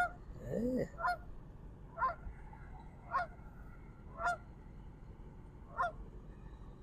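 Waterfowl honking: six short, nasal calls repeated about once a second, with a lower call that bends in pitch just after the first.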